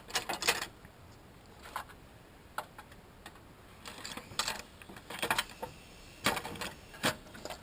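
Irregular metallic clicks and clinks of hand tools and bolts being handled while working on an engine, several in quick succession near the middle.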